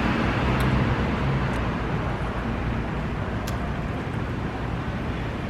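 Street traffic noise: a vehicle engine passes and fades in the first second or so, over a steady wash of road noise. A few light clicks come through.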